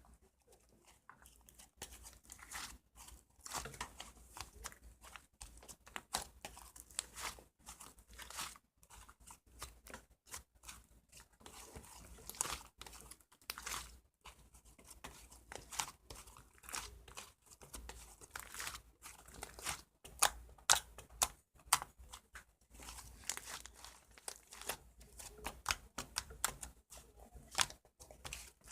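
Irregular crinkling and crackling of a crinkly material being handled, many short sharp crackles in a small room.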